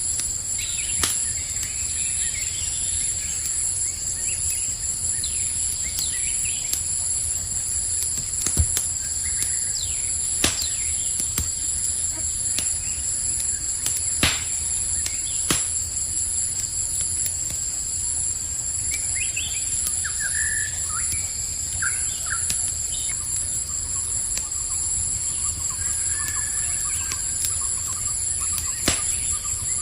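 Crickets chirping in a steady high chorus over the low rush and scattered sharp pops of a crackling campfire. Birds chirp briefly about two-thirds of the way through and again near the end.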